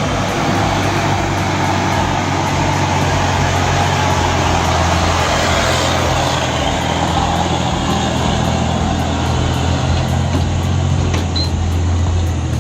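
Heavy truck's diesel engine running steadily, a constant low hum under a broad haze of noise.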